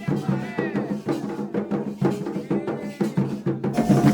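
Candomblé drumming: atabaque hand drums play a fast, steady rhythm, with voices singing over them.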